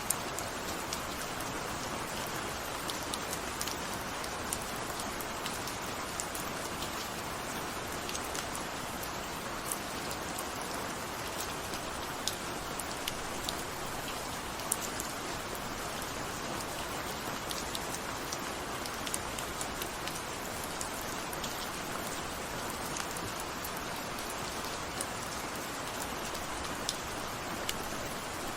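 Steady rain falling on a surface, a constant hiss with many sharp individual drop ticks scattered through it.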